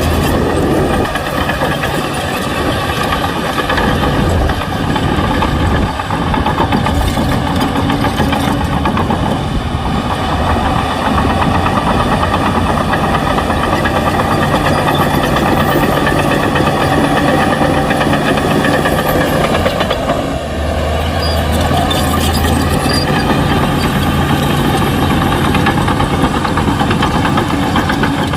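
Shantui bulldozer's diesel engine running steadily, with the engine note dipping briefly about twenty seconds in before recovering.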